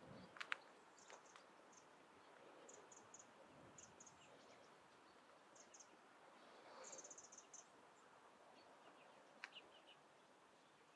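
Faint, distant birds calling: short high-pitched chips in quick runs, the longest run about seven seconds in, over a quiet background hiss, with a few sharp clicks near the start and again about nine seconds in.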